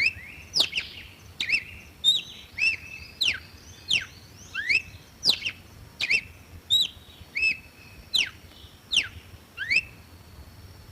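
Campo troupial (corrupião) singing: a long run of loud, clear whistled notes, some sliding down and some sliding up in pitch, about one and a half a second, that stops near the end.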